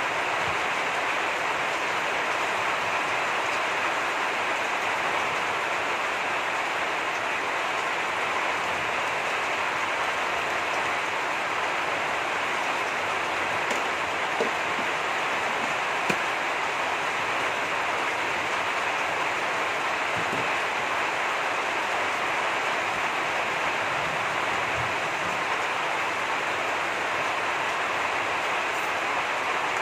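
Heavy rain falling steadily, an even hiss with no letup, with two faint ticks about halfway through.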